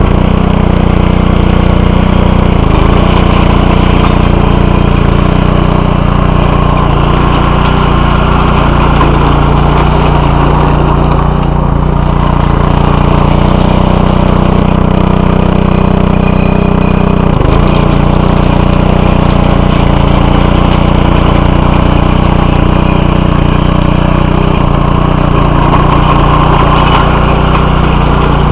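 Small single-cylinder Briggs & Stratton 4.75 hp engine on a Bolens front-tine tiller, running steadily and loudly just after a cold start, with a brief dip in the sound about 17 seconds in.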